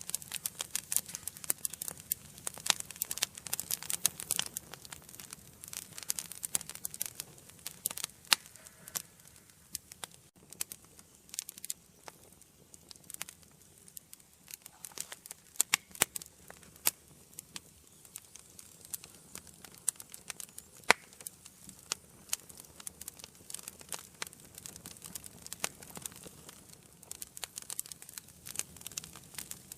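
Wood fire burning in an indoor fireplace, crackling steadily with frequent sharp pops and snaps over a soft hiss; the crackles come thickest in the first few seconds, and a few single pops stand out louder.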